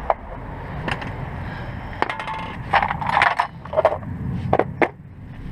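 Metal hand tools clinking and knocking together as a 15 mm spanner or socket is searched out of a set: a string of sharp clinks, some with a brief metallic ring, most of them in the second half.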